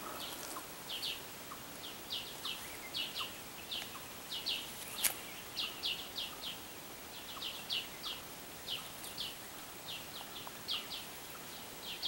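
Small forest birds chirping: short high notes, mostly in twos and threes, repeating about once a second. There is a single sharp click about five seconds in.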